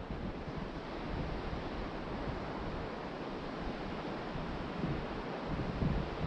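Ocean surf washing onto the beach with wind buffeting the microphone, a steady rushing noise with gusty low rumbles growing toward the end.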